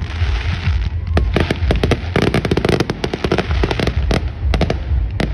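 Fireworks going off in a rapid string of sharp cracks and pops, densest about two to three seconds in, over a steady low rumble.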